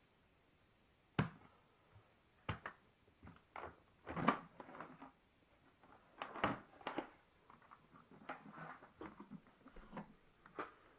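Irregular knocks and clicks, about a dozen spread unevenly over several seconds, as of hard objects being handled and set down; no motor is running.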